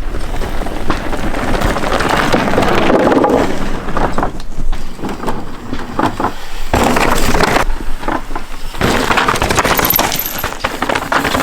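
Mountain bike clattering and rattling over a rough trail, with a dense run of knocks and clicks from the frame and tyres striking rocks.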